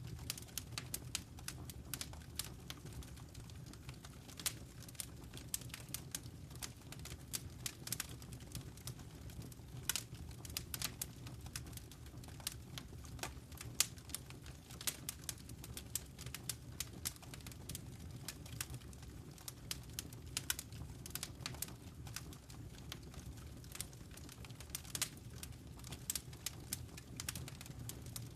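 Fireplace fire crackling: irregular sharp snaps and pops, several a second, over a low steady rumble.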